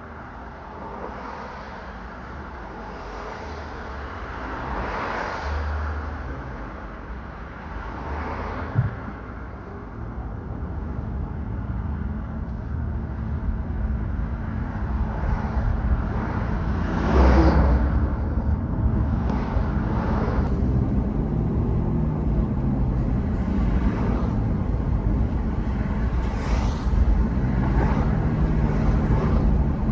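Road traffic: a steady low rumble of vehicle engines and tyres, with several vehicles passing, the loudest about seventeen seconds in.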